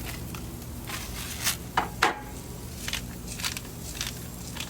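Cooking gear clattering at a grill: a few sharp clicks and knocks, the loudest pair about two seconds in, over a steady low hum.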